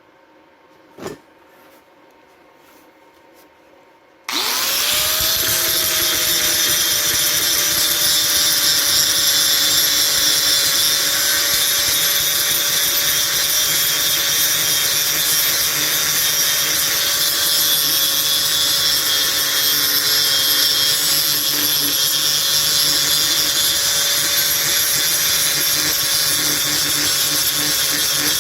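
A handheld electric power tool switches on about four seconds in, its motor spinning up, then runs steadily with a whine over a dense hiss, working on the metal of a broken greenhouse roll-up vent handle being repaired. A single click comes just before it, about a second in.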